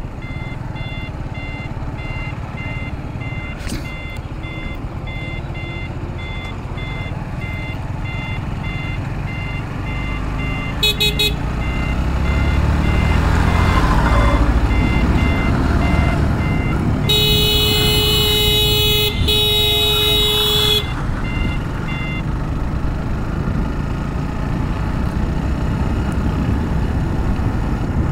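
Motorcycle running on the road with wind and road noise, its turn-signal buzzer beeping about twice a second until a little after two-thirds of the way through, signalling a right turn. A louder rumble swells in the middle, a horn gives a short toot and then sounds in two longer blasts.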